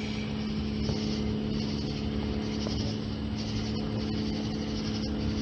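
A steady engine hum with an unchanging low drone, over a high pulsing hiss that comes and goes.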